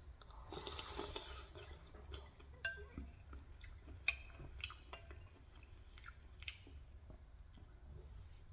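Close-up eating sounds: a person chewing and eating soup, with a few sharp clicks scattered through. The loudest click comes about four seconds in.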